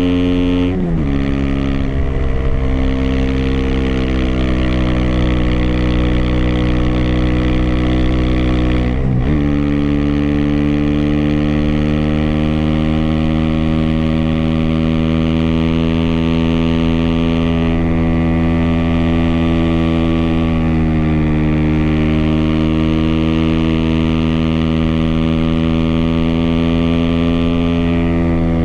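Aprilia SX 125's single-cylinder four-stroke engine through an Arrow racing header and Thunder slip-on exhaust with the dB-killer fitted, pulling under way. The pitch drops sharply about a second in and again about nine seconds in as the rider shifts up, climbs slowly, then holds fairly steady at cruising revs. Heard muffled from a phone in the rider's backpack, without wind noise.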